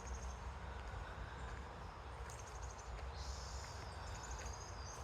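Faint songbirds calling in a forest: several short, high, thin trills and a brief buzzy call, over a low rumble.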